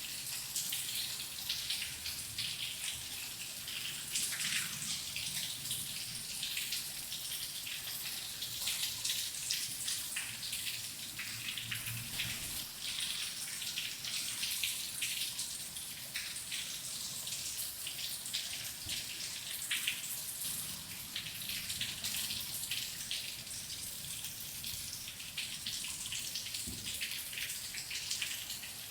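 Steady rain, a dense patter of many drops with no let-up.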